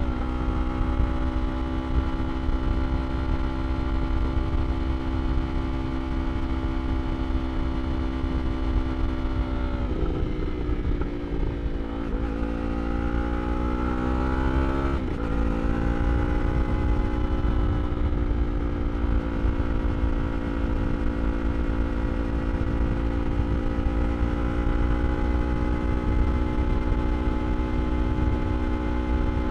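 A 2023 Yamaha R3's 321 cc parallel-twin engine running through an Akrapovič slip-on exhaust at a steady pitch. About ten seconds in the revs fall, then climb again, with a gear change about fifteen seconds in, before it settles back to a steady pitch. A low rumble of wind noise runs underneath.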